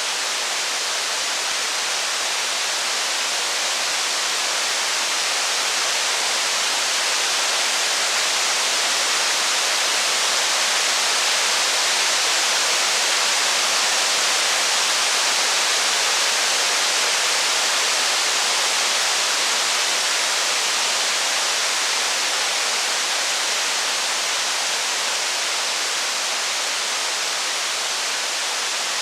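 Steady, dense rain hiss with no separate drops, thunder or crackle standing out. It swells a little midway and eases back near the end.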